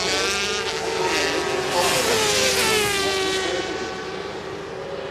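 400 cc supersport racing motorcycles passing at high revs, several engines overlapping, their pitch falling as each goes by. The sound drops away after about three and a half seconds.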